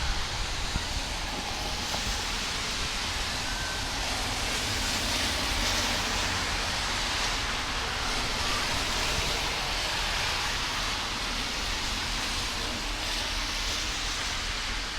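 Storm rain falling steadily: a constant, even hiss with a low rumble beneath it.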